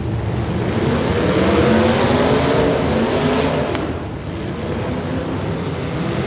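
Demolition derby car engines revving hard, the pitch climbing, dropping off about four seconds in, then climbing again near the end, over a steady rush of noise.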